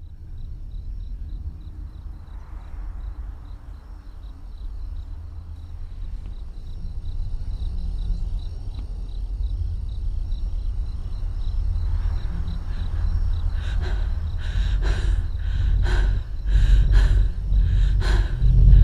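Movie-trailer sound design: a low rumbling drone under faint, rapidly repeating insect chirps, building in loudness and breaking into a run of heavy, sharp hits in the last few seconds.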